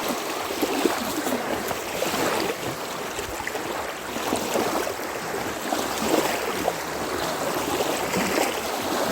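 Steady rush of wind-driven water, small waves lapping along the pond shore, with wind around it.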